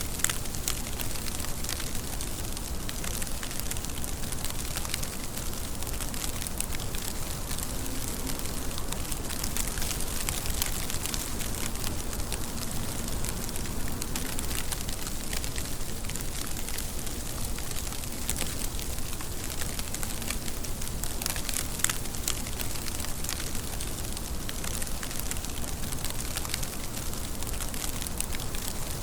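Steady rain: an even hiss of falling water with a dense scatter of sharp ticks from individual drops.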